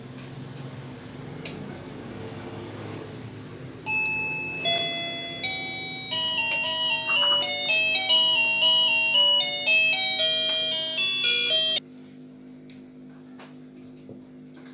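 Wireless calling bell playing its electronic chime melody through its speaker, a tune of clear stepping notes that starts suddenly about four seconds in and cuts off abruptly some eight seconds later. A low steady hum runs underneath.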